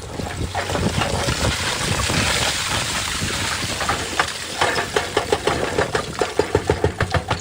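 Excavator's diesel engine running, with a rushing noise about two seconds in and then a quick run of regular knocks, several a second, through the second half.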